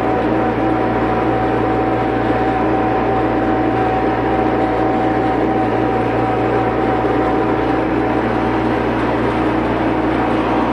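Case/David Brown tractor engine running steadily at a constant speed, with a steady whine over the low engine hum.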